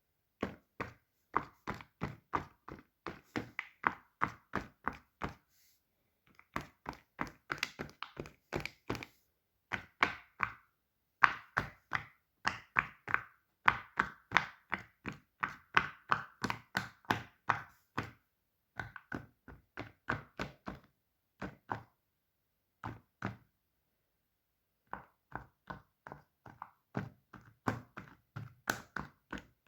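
Fidget toys being clicked and tapped: runs of short, sharp taps, about two to four a second, broken by a few brief pauses.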